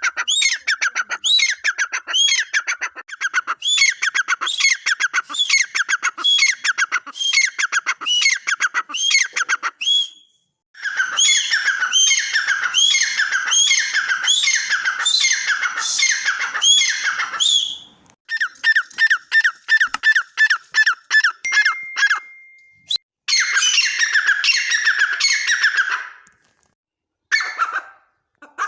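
Teetar (francolin) calling: loud, harsh notes repeated at about two a second in long bouts, with short pauses between the bouts. A brief steady whistle-like tone cuts in once, a little past the middle.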